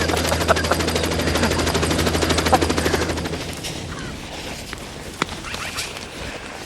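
A nearby engine running with a rapid, even chatter and a steady low hum, fading away about three and a half seconds in. Afterwards there are only a few faint clicks and crunches.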